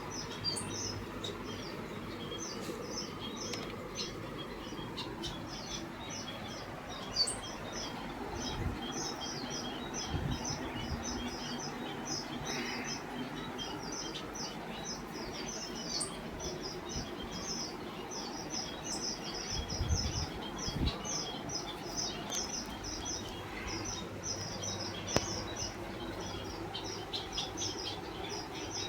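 Many small birds chirping together in a dense, unbroken stream of short high chirps, several a second, with a few brief low bumps.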